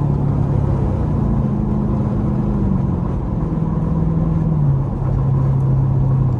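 Straight-piped Dodge Durango V8 exhaust droning at highway cruise. The note steps slightly up and down a few times as the throttle changes.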